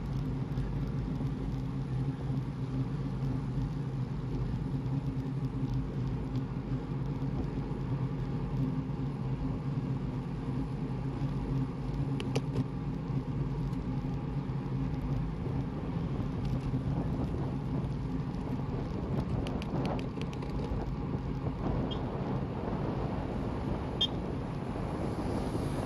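A motor vehicle's engine running steadily at a constant low pitch, over wind rumble on the microphone.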